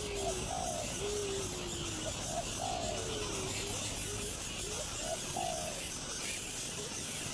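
Birds calling: a repeated call of a short note followed by a longer falling note, every two to three seconds, with lower drawn-out falling notes in between.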